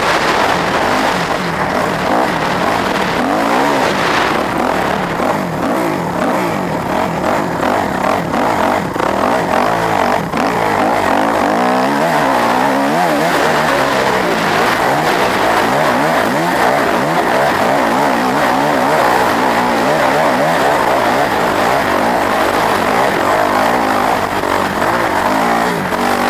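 Several hill-climb motorcycle engines revving hard and overlapping, their pitch rising and falling without a break.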